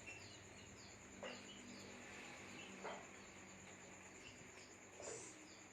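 Faint background chirping: short, high chirps repeating about twice a second over a steady high-pitched drone, with a few soft knocks.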